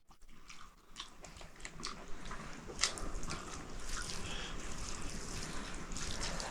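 Someone chewing food, with scattered small crunches and clicks over a faint background.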